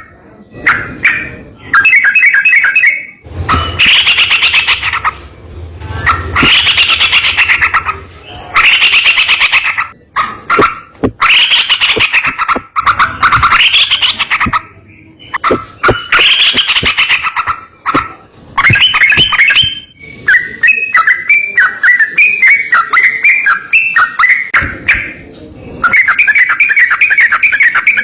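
Trucukan (yellow-vented bulbul) singing: a run of loud, bubbling phrases of a second or two each, separated by short pauses, turning to quicker chattering notes in the second half.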